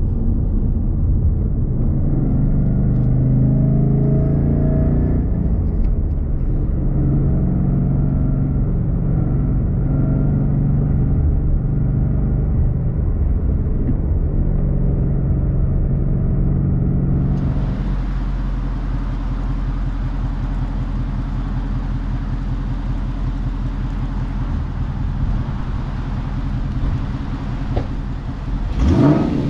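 2016 Ford Mustang GT's 5.0 V8 through a Roush cat-back exhaust, running steadily. About 17 seconds in, the sound changes abruptly, and near the end the engine revs quickly.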